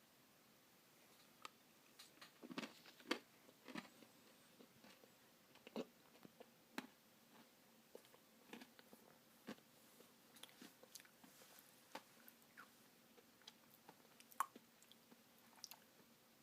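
Faint mouth sounds of a person eating a spoonful of Blizzard ice cream: chewing with scattered soft crunches and clicks at irregular intervals.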